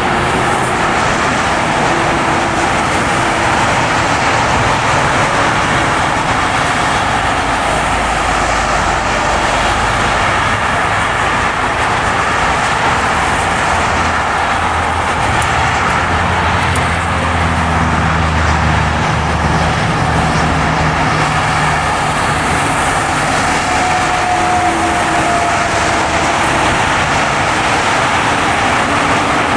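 Car driving on a ploughed, snowy road: steady tyre and road noise with the engine running underneath, its low hum shifting in pitch partway through.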